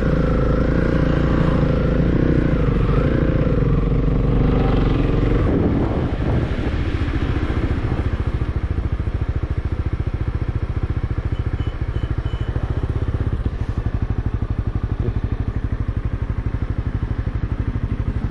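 Motorcycle engine running, its pitch wavering up and down for about the first five seconds, then settling into a steady low idle with an even beat of firing pulses.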